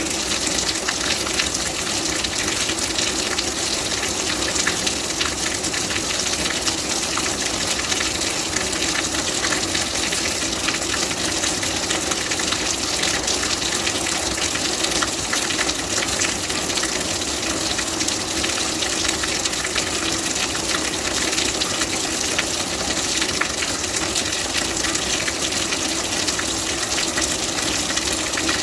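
Steady rain: an even, dense hiss of falling drops that holds unchanged throughout.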